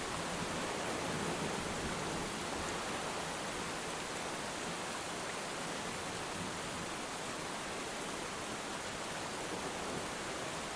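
Steady rain, an even hiss with no separate drops standing out. A low rumble of thunder fades away in the first second or two.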